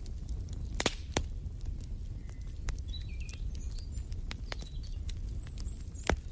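Wood fire in a fireplace crackling over a steady low rumble, with frequent small snaps and a few louder pops, about a second in and near the end. A few brief faint bird chirps come through in the middle.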